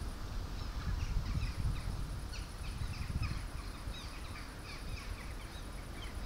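Small birds chirping in short, repeated calls over a low gusty rumble.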